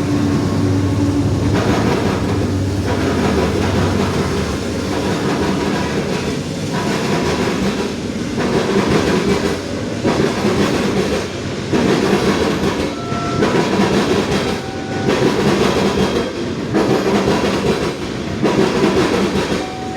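Freight train passing close by. A steady engine hum is heard at first, then the rolling cars with wheel clatter that swells rhythmically about every second and a half to two seconds.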